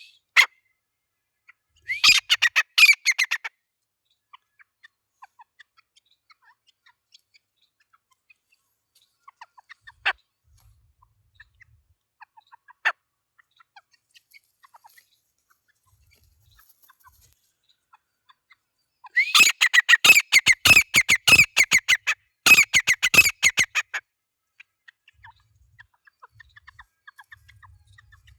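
Grey francolin (teetar) calling in loud, harsh, rapidly repeated notes: a short burst about two seconds in, two single sharp notes near the middle, then a longer, louder run of fast repeated calls near the end.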